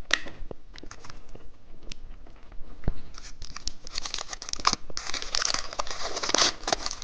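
Plastic candy wrapper being handled and torn open: a few light clicks and taps, then from about three seconds in a dense, continuous crinkling.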